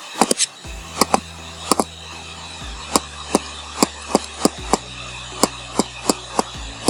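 Loud, sharp clicking, irregular at about two or three clicks a second, over a steady low hum.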